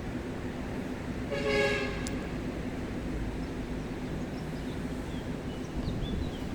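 A short horn toot, about half a second long, over a steady rush of river water. A few faint bird chirps come near the end.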